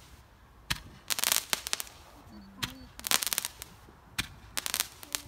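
Fireworks crackling in the sky: a single sharp crack, then a quick run of rapid pops, repeated three times about every one and a half seconds.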